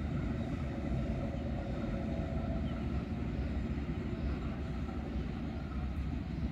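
Steady low rumble of a loaded magnetite ore train rolling away, its last wagons receding down the line.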